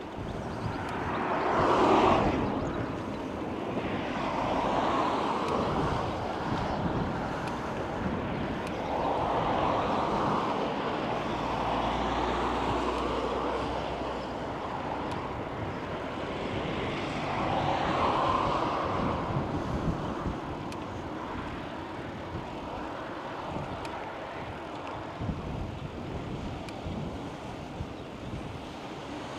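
Several vehicles passing one after another, each sound swelling and fading over a few seconds, over steady outdoor wind and road noise.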